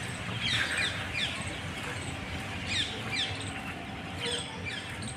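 Birds chirping: a string of short, high notes that each slide downward, repeated at an uneven pace.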